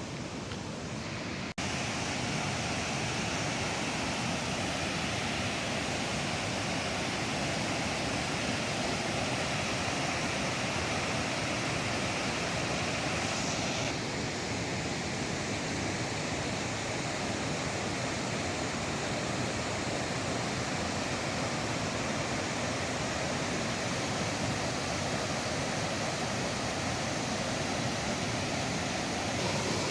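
Steady rushing roar of the Snake River waterfalls, water pouring without letup, with abrupt shifts in tone about a second and a half in and about halfway through.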